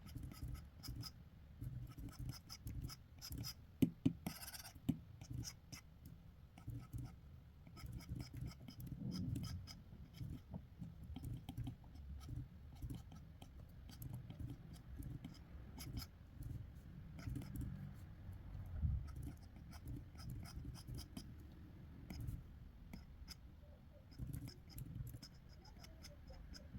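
Drawing strokes scratching across paper in short, irregular bursts, with a few sharper taps about four seconds in.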